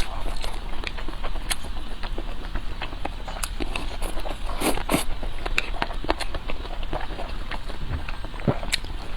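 Close-miked chewing and eating: an irregular run of wet clicks and crunches from the mouth and food.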